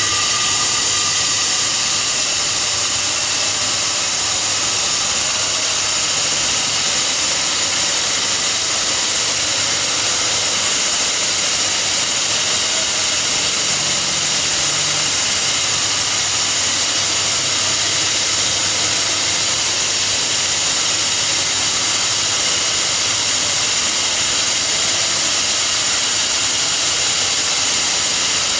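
Electric core drilling machine running steadily at high speed, a loud whining hiss of the motor and diamond core bit.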